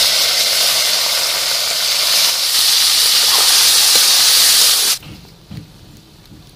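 Loud hiss and sizzle of shelled snail meat frying in hot mustard oil in a kadhai. The sizzle cuts off abruptly about five seconds in, leaving only a faint crackle.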